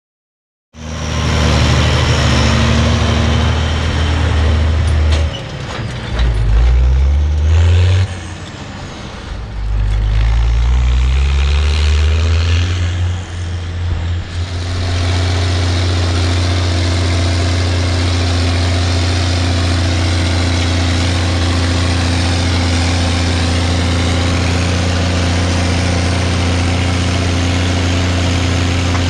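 Zetor 16145 tractor's six-cylinder diesel engine running, revved up and let back down twice, then settling to a steady, even run.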